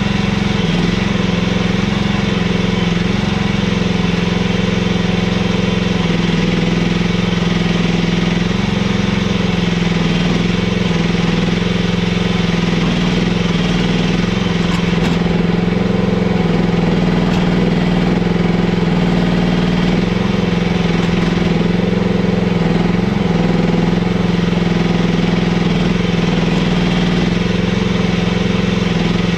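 Mini excavator's engine running steadily at working speed as it digs a trench in hard-packed clay, its pitch shifting slightly with hydraulic load.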